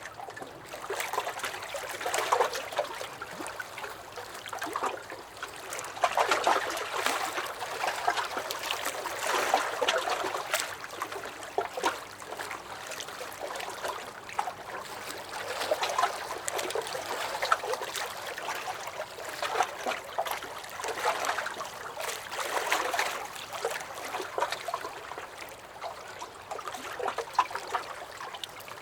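Small lake waves lapping and sloshing against a dock, with small splashes and gurgles that swell and ease every few seconds.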